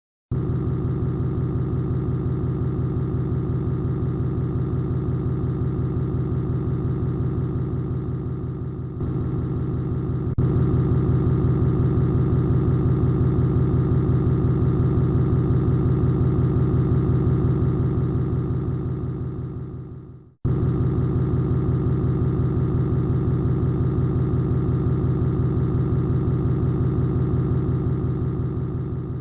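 Steady mechanical hum with a fast, even pulse, like machinery running. It shifts slightly about nine seconds in, fades out and cuts off about twenty seconds in, then starts again unchanged.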